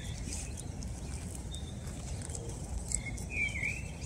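Outdoor birdsong: a few short bird chirps, the clearest a curving call about three seconds in, over a steady low rumble of background noise.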